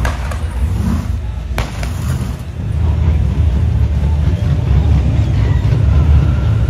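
Loud, rumbling car engines, with one sharp crack about a second and a half in.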